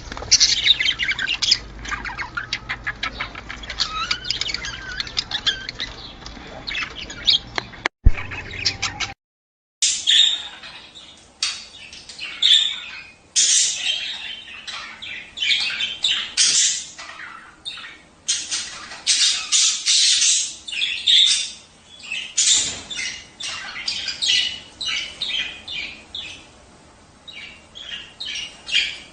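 Budgerigars chattering, a busy mix of warbling chirps and sharp squawks. The sound breaks off for a moment about nine seconds in and resumes with louder, sharper calls.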